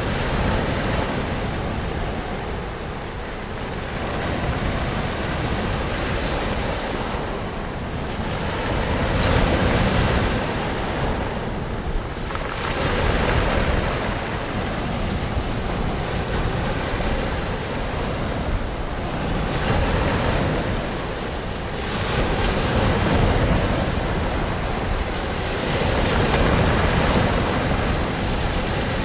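Ocean surf: waves breaking and washing in as a continuous rushing noise that swells and eases every few seconds.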